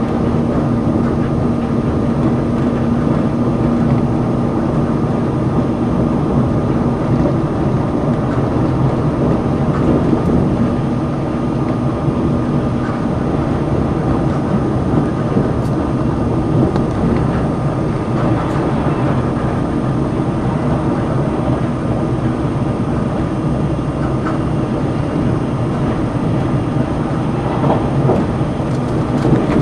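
Steady running noise of the Sonic limited express, a tilting electric train, heard from inside a passenger car: the rumble of wheels on rail with a steady hum over it.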